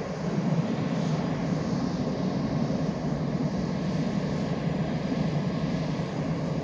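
F/A-18 fighter jet engines idling with a steady drone during a hot refuel, one engine shut down and the other left running while fuel is taken on.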